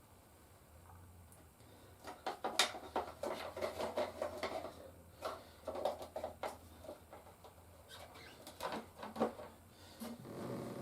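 Plastic toys being handled: irregular light clicks, taps and rattles, starting about two seconds in and going on in uneven clusters.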